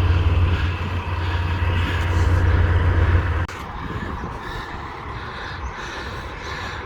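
Truck engine idling with a steady low rumble that stops abruptly about three and a half seconds in, leaving quieter outdoor noise.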